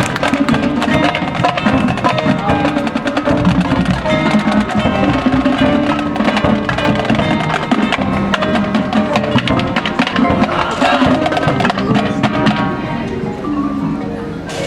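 High school marching band playing its show music, with many sharp percussion strokes over sustained pitched notes. The volume eases down a little near the end.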